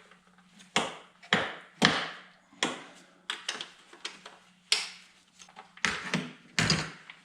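Hand tools clanking and knocking against engine parts as the upper intake manifold's nuts and bolts are worked loose: about eight sharp knocks at irregular intervals, each ringing briefly, over a faint steady hum.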